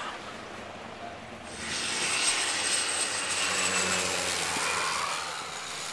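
Jet aircraft engines: a rushing noise with a high whine that comes up about a second and a half in and eases a little near the end.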